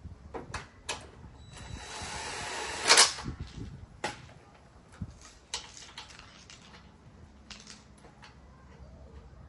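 Scattered clicks and knocks of hand tools and parts being handled, with a scraping hiss lasting about a second and a half that ends in one loud sharp clack about three seconds in.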